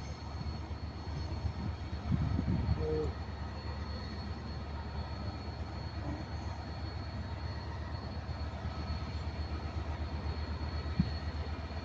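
Diesel locomotive engine running with a steady low drone and a fast, even throb, swelling briefly about two seconds in.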